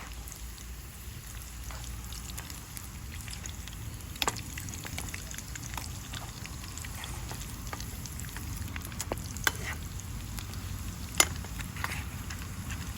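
Food frying in hot oil over a campfire: a steady sizzle with small crackles and a few sharp pops, the loudest near the end.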